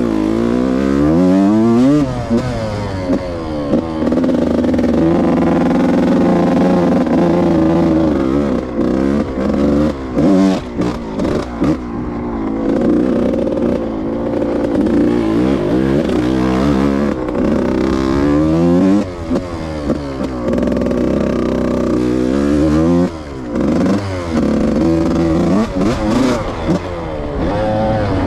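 Yamaha YZ125 single-cylinder two-stroke dirt bike engine under riding load, revs climbing and dropping over and over as the throttle is opened and closed, with a few brief throttle cuts.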